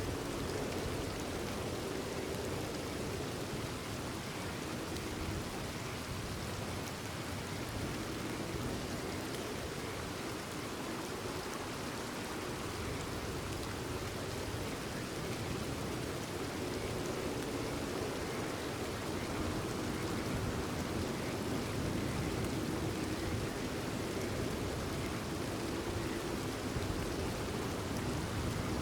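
Steady, even rainfall, a continuous patter of rain falling on surfaces.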